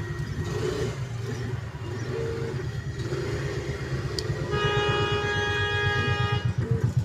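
A motor vehicle's engine running with a fast low pulse, and a vehicle horn sounding one held blast of about two seconds past the middle.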